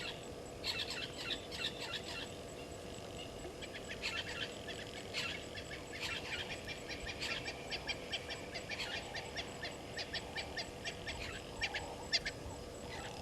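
Wild birds calling in runs of rapid, sharp chattering notes that come in repeated bursts, over a faint steady hum.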